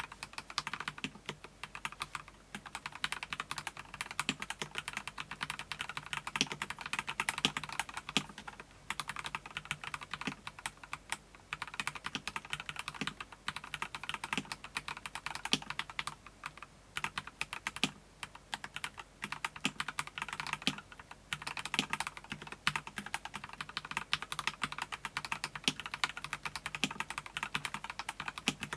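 Mechanical keyboard being typed on in fast, steady runs of key clicks and clacks, with a few brief pauses between bursts.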